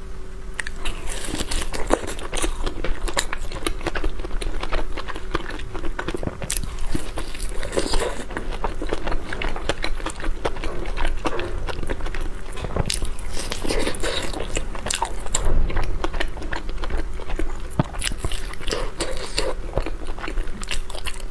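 Close-miked mouth sounds of someone biting into and chewing a soft snow taro paste pastry with an egg yolk filling: continual wet smacks and clicks in an uneven rhythm.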